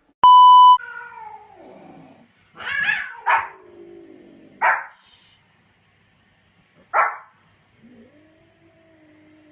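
A loud, steady one-tone beep lasting about half a second, then a dog whining with falling pitch and giving four short, sharp barks spread over the next few seconds, with a faint drawn-out whine near the end.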